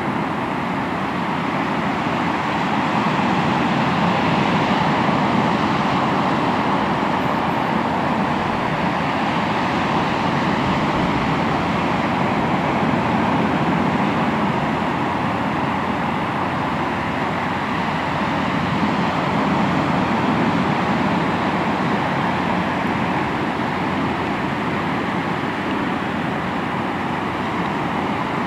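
Sea waves washing onto the shore in a continuous rush of surf that swells and eases slowly every several seconds.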